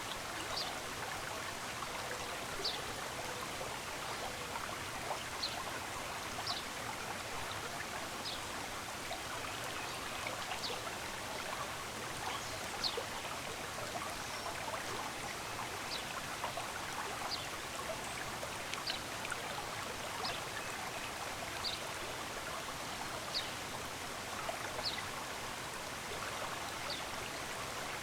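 Running stream making a steady rush of water. A small bird gives short, high chirps every second or two over it.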